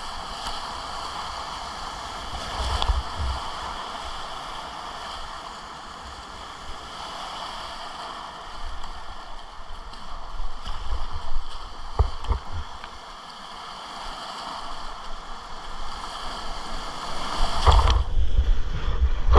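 Whitewater river rapids rushing steadily around a kayak, with scattered low thumps, and growing louder near the end.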